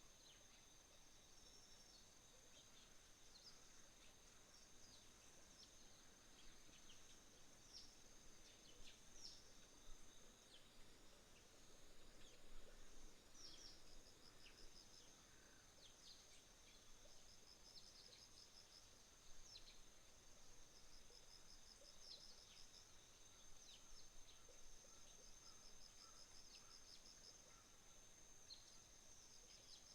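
Faint autumn morning insect chorus: crickets keep up a steady high trill, with a second insect trilling in repeated short bursts, while small birds give many short, high chirps scattered throughout.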